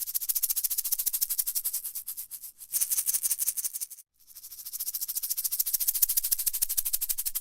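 A rattle or maraca-like shaker being shaken quickly, giving a fast, even run of dry rattling strokes. It breaks off briefly about two and a half seconds in and again about four seconds in, then carries on.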